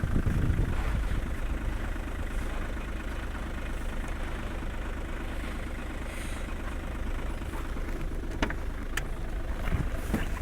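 Skoda Roomster 1.4 TDI three-cylinder diesel idling steadily while still cold after a start at about −18 °C. A couple of short clicks come near the end.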